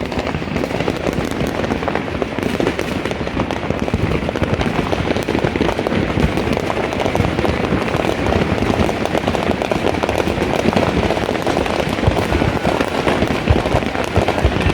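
Fireworks and firecrackers going off all around in a dense, continuous crackle of rapid pops, heard from inside a car.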